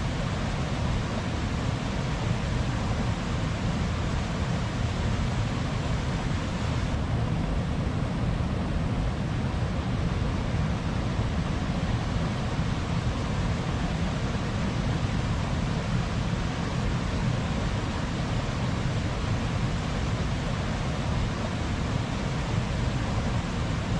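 Steady, even rushing noise of a nature soundscape, heaviest in the low end, with no music or voices.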